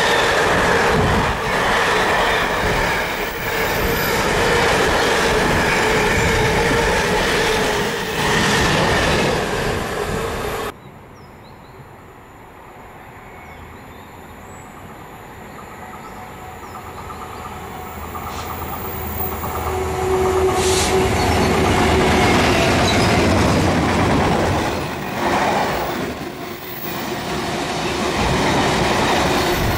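Freight trains passing: container wagons rolling by with clattering wheels and a steady squeal, cut off abruptly about a third of the way in. Then a Class 66 diesel locomotive's two-stroke V12 is heard approaching with a train of wagons, its low engine drone growing louder until wagons rumble past near the end.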